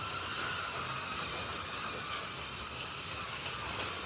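Slot.it 1:32 slot cars running laps on a slot car track: a steady mix of small electric motor whine and the hiss of guide braids and tyres, with the whine wavering slightly as the cars speed up and slow.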